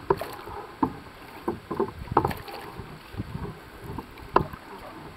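Canoe being paddled: irregular splashes and knocks of the paddles in the water and against the hull over a low wash of water noise, with one sharper knock about four and a half seconds in.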